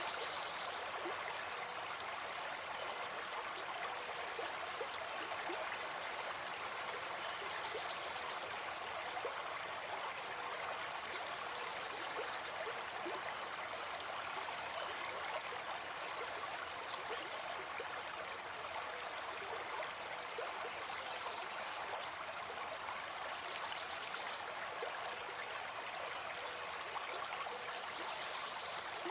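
Gentle forest stream flowing over stones, a steady rushing babble with small trickles and gurgles.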